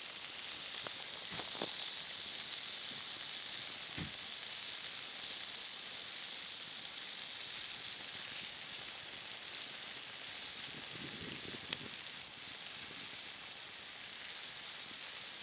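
Chicken sizzling over a campfire: a steady hiss with a few sharp pops, about one and a half seconds in, four seconds in and near the end.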